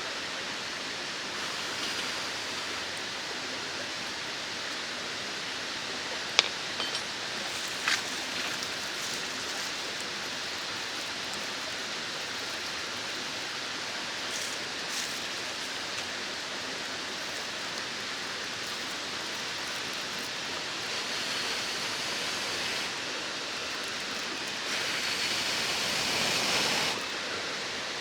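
Mountain stream rushing steadily over rocks, with a few sharp clicks about six and eight seconds in.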